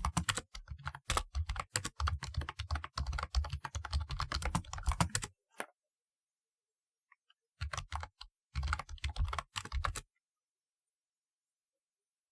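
Typing on a typewriter-style keyboard: a fast, dense run of key clicks for about five seconds, a pause of about two seconds, then a shorter burst that stops about two seconds before the end.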